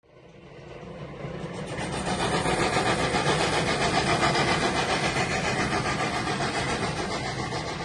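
Train passing by, its sound building up over a couple of seconds to a peak and then slowly fading.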